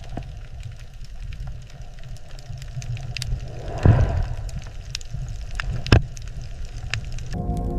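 Underwater ambience: a steady low rumble with scattered crackling clicks, and two louder knocks about four and six seconds in. Soft music with sustained tones comes in near the end.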